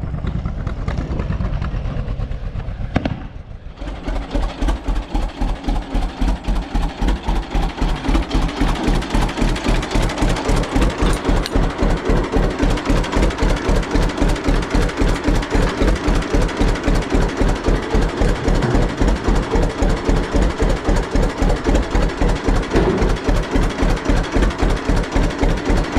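John Deere G tractor's two-cylinder engine running with a slow, even, pulsing beat. It takes over about four seconds in, after a short dip from a steadier engine sound.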